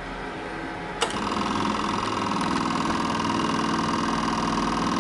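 Small electric motor whirring steadily at an even pitch, switched on with a click about a second in, over a low hum.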